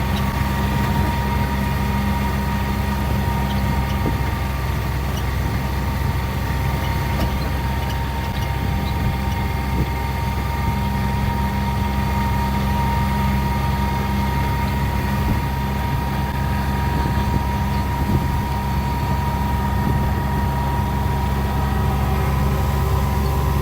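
A vehicle's engine running steadily, with a steady high whine over the low engine note.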